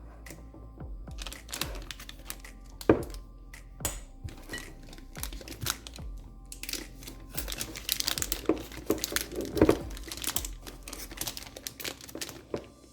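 Plastic piping bag crinkling and rustling as it is handled and filled with thick whipped-cream frosting, with irregular soft clicks and taps that grow busier in the second half.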